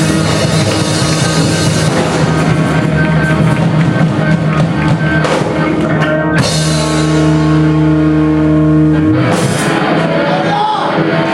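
Live rock band playing loud, with a drum kit and electric guitars. About six seconds in, the drumming stops and a held chord rings on. Near the end the bass drops out and wavering, bending notes sound over it, like a song ending.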